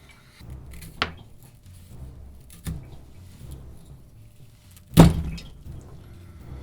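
Knife blade chopping down through test material and knocking on the surface beneath: a sharp knock about a second in, a softer one near three seconds, and a loud thunk about five seconds in.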